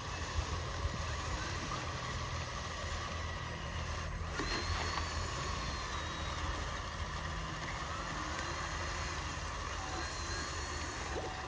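Electric motors and gearing of radio-controlled model trucks running steadily, with a constant low hum and a steady high whine. A few faint, high chirps come and go over it.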